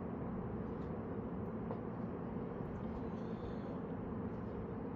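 Steady low background rumble with a couple of faint light clicks.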